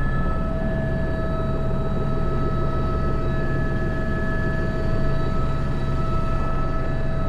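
Airbus H125 helicopter in forward flight, heard from the cockpit: a steady whine from the turbine and gearbox over the low rumble of the rotor, unchanging throughout.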